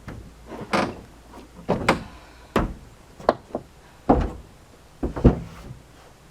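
Irregular clunks and bangs on sheet-metal body panels, about seven over six seconds, the loudest near the end.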